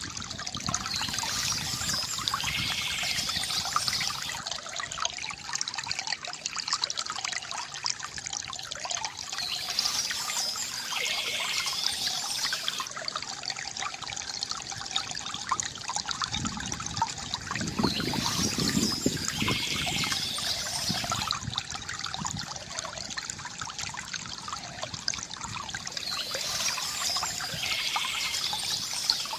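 Water trickling and gurgling steadily from a bamboo fountain, with a brighter, hissier stretch returning about every eight or nine seconds.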